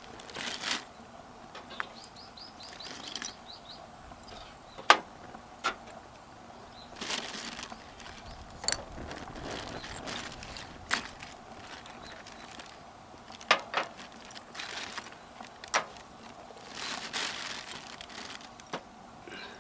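Charcoal being handled and set in a small fold-out grill while lighting a fire: sharp knocks and clinks with bursts of rustling. A short run of rapid high chirps comes about two seconds in.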